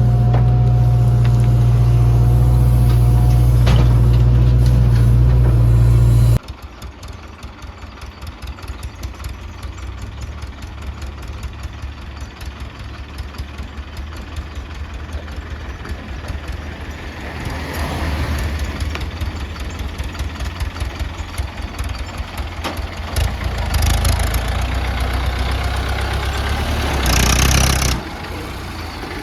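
Diesel engine of a backhoe loader at work, loud and steady at first, then cutting off suddenly. It is followed by quieter, knocking diesel running that rises in bursts of revving, loudest briefly near the end.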